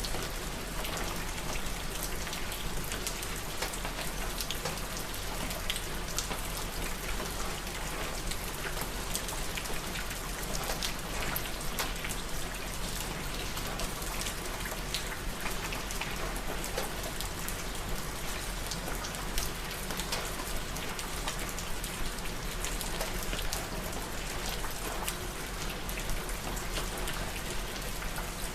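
Steady rain falling, with many close individual drops pattering on a surface.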